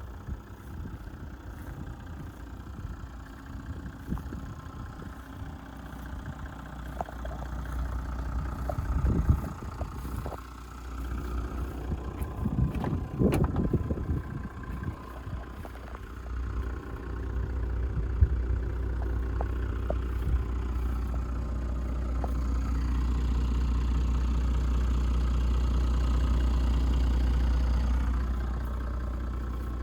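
Toyota Land Cruiser 100 Series 4.2-litre straight-six turbo diesel idling steadily, with a few knocks about a third of the way in. The engine grows gradually louder through the second half and eases off near the end.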